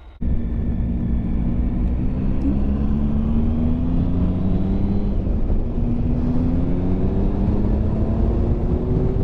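Motorcycle engine pulling hard under acceleration, its note rising steadily in two long pulls with a gear change about halfway through, over heavy wind and road rumble.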